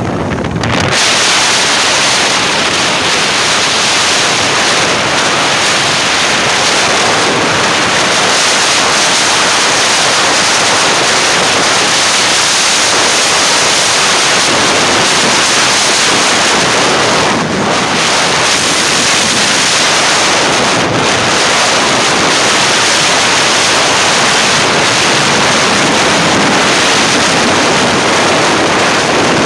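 Loud, steady rush of wind buffeting the microphone, mixed with the sound of sea waves.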